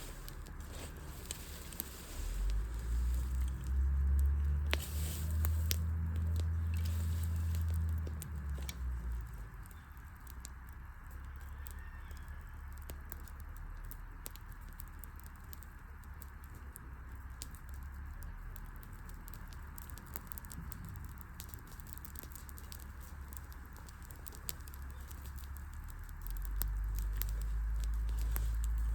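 Wood campfire crackling, with many scattered sharp snaps and pops over a soft hiss. A low rumble swells from about two to nine seconds in and again near the end.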